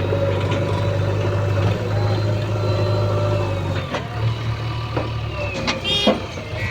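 Heavy diesel engine of earth-moving machinery running steadily, its note dipping and changing about four seconds in. A brief higher-pitched sound comes near the end.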